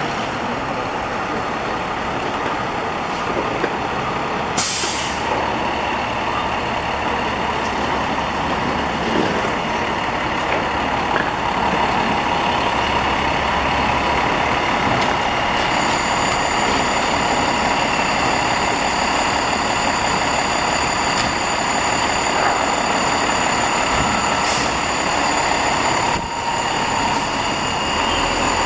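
Seagrave Marauder II fire engine running steadily, with a short hiss from its air brakes about four and a half seconds in. About halfway through, a steady high-pitched whine joins the engine noise.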